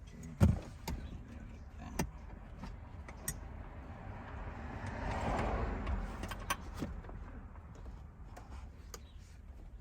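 Sharp clicks and knocks of parts being handled and fitted in a car interior, the loudest about half a second in, with a rustling swell of noise about five seconds in.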